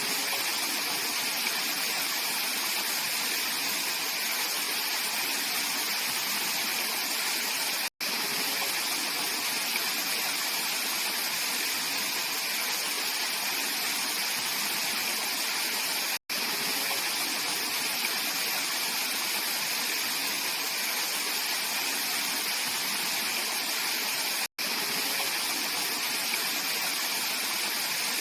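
Mountain valley stream rushing steadily over rocks, an even, full water noise. It is broken by three very brief dropouts to silence, about eight seconds apart.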